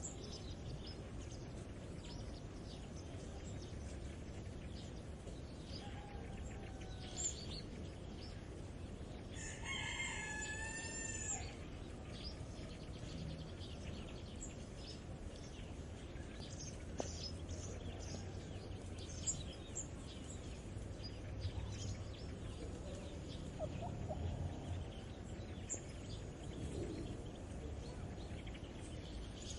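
A rooster crows once, about ten seconds in, a call of roughly two seconds. Small birds chirp here and there, over a steady low rumble.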